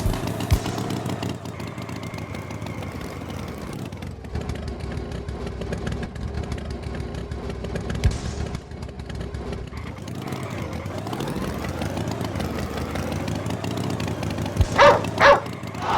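Animated tractor's engine running, its pitch dropping about four seconds in and climbing again later, followed by two short loud pitched tones near the end.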